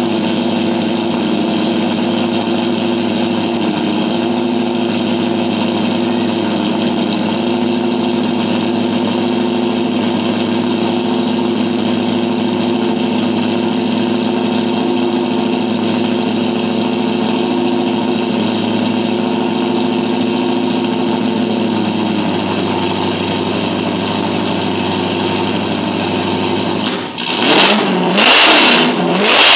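Holden 308 V8 idling steadily, then blipped in a few short, louder revs near the end.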